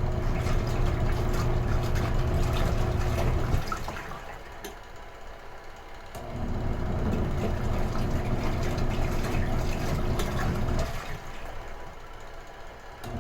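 Retro-style washing machine in its wash cycle: the motor hums with water churning for a few seconds, stops for about two seconds, runs again, then stops once more near the end.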